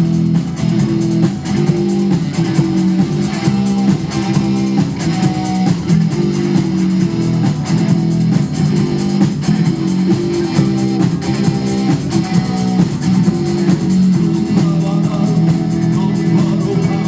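Rock band playing an instrumental passage: guitar chords over a drum kit, with no vocals.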